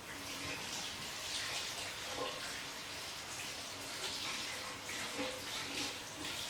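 Water running steadily from a tap into a sink as paint is washed off hands.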